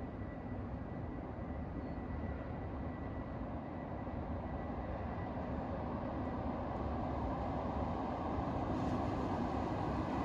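Low rumble of a 1000N-series electric train on the rails, growing steadily louder as it approaches through the tunnel.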